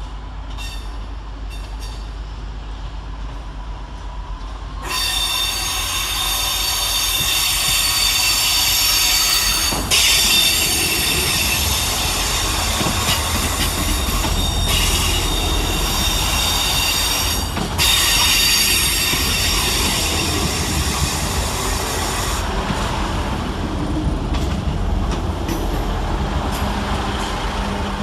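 Class 158 diesel multiple units arriving, their wheels squealing loudly against the rails from about five seconds in, over a steady low rumble. The squeal breaks off twice and fades out after about twenty seconds.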